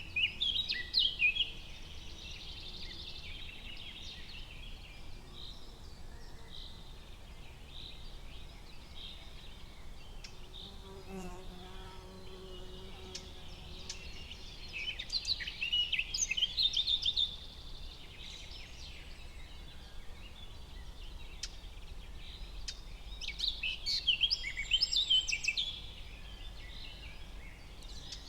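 Forest ambience of songbirds chirping and singing in quick bursts: near the start, about halfway through and again near the end, over a steady low background hum.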